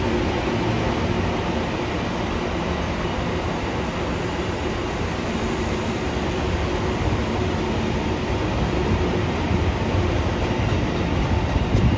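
A train running steadily on rails, an even noise that holds at the same level throughout.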